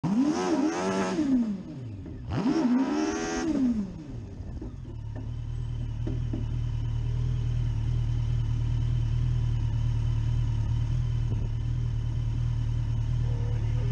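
Competition car's engine revved twice, each rev rising and falling in pitch, then settling to a steady idle.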